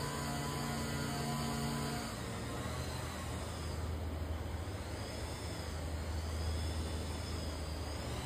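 Aircraft engine droning as it flies past, its steady pitch dropping to a lower hum about two seconds in, with a faint sweeping, phasing hiss above it.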